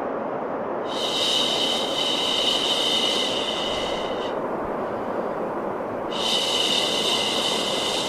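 Steady white noise for baby sleep, with a long soft 'shhh' shushing sound laid over it twice, each lasting about three seconds.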